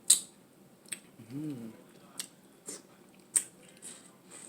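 Someone eating crab close to the microphone: a string of sharp, wet clicking mouth sounds from chewing and sucking the meat, with a short hummed "mm" about a second and a half in.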